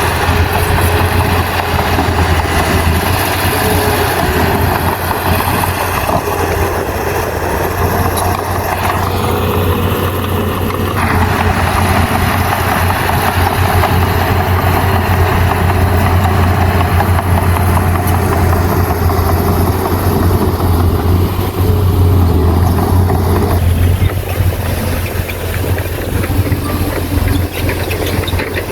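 Bulldozer's diesel engine running steadily with a deep, constant hum. Its sound shifts about eleven seconds in and eases a little around twenty-four seconds in, as the load changes.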